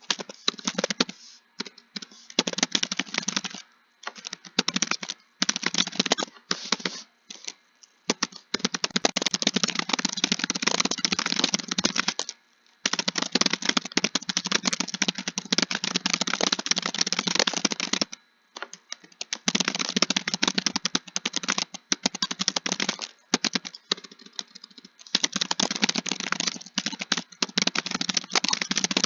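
Fast typing on a keyboard, in runs of a few seconds broken by short pauses, the longest runs coming midway.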